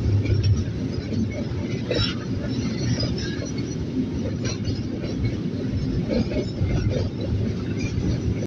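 Train running with a steady low rumble, with scattered light clinks and knocks.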